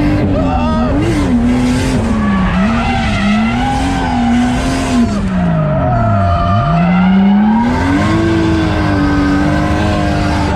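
A 630-horsepower drift car's engine revving hard, its pitch swinging up and down as the tyres skid. About six seconds in, the revs fall steeply, then climb back up.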